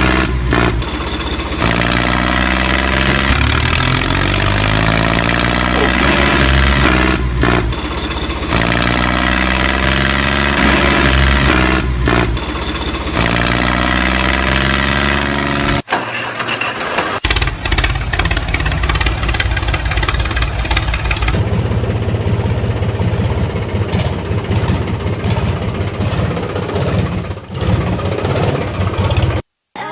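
An engine revving, its pitch climbing several times over, then running more steadily after a brief drop about halfway through.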